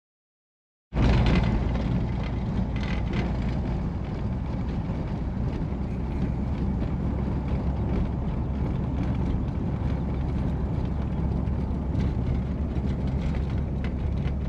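Steady engine and road rumble of a 1953 Oldsmobile Super 88 on the move, heard from inside the car; it cuts in suddenly about a second in.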